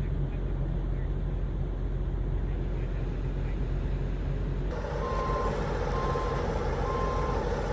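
Heavy truck's diesel engine running steadily. About five seconds in, its reversing alarm starts beeping, a high single-tone beep a little under once a second, as the truck backs up.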